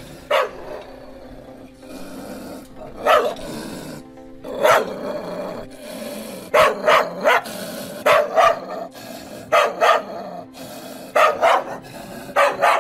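A dog barking repeatedly, its barks coming irregularly and often two or three in quick succession.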